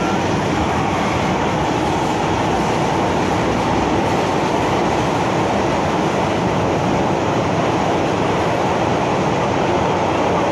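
MTR Kwun Tong Line M-Train (Metro-Cammell electric multiple unit) running between stations: a steady rumble of wheels on track and traction noise, heard from inside the passenger car.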